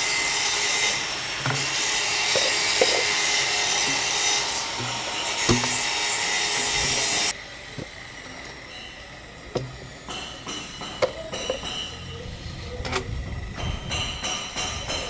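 A short piece of drainage pipe being sawn through, a steady rasping noise that cuts off abruptly about seven seconds in. After it come scattered knocks and clicks as pipe pieces are handled.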